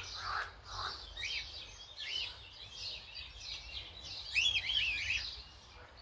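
Birds chirping: short, scattered high chirps, with a louder cluster of them about four and a half seconds in.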